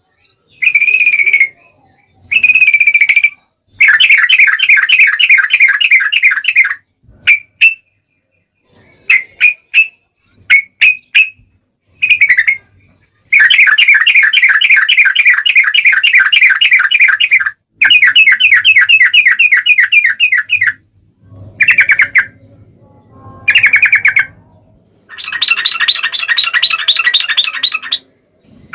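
Yellow-vented bulbul (trucukan) calling in loud bursts of fast, bubbly chattering notes. Some phrases are short; others run on for three or four seconds, with brief pauses between them.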